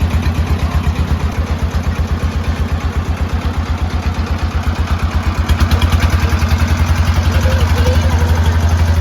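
Boat engine running steadily with a rapid, even thumping pulse, getting a little louder about halfway through.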